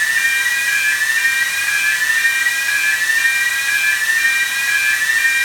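Steady high-pitched whistle and hiss of air during an engine-room pressurization test, with a couple of tones whose pitch wavers in a repeating pattern about once a second.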